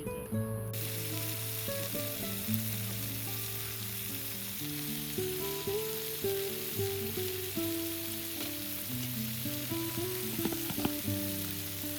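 Ajillo sizzling steadily in hot olive oil. The sizzle cuts in sharply just under a second in, with background music playing under it.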